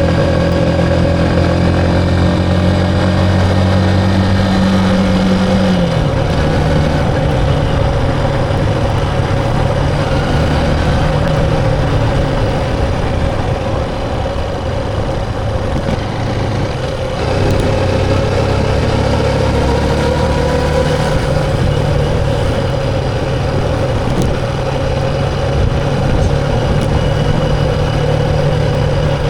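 Motorcycle engine running while riding, its pitch dropping about six seconds in and then holding steady, with a steady rush of road and wind noise.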